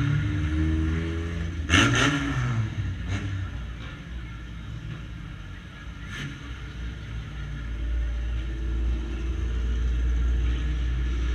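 A banger racing car's engine idling, heard from inside its stripped-out cabin, with a sharp clack about two seconds in.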